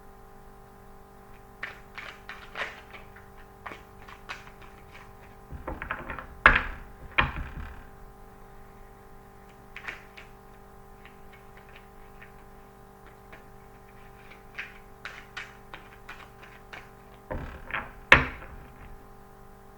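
Tarot cards being shuffled and handled: scattered light clicks and taps of the cards, with two louder knocks about six and eighteen seconds in, as when a deck is tapped or set down on the table.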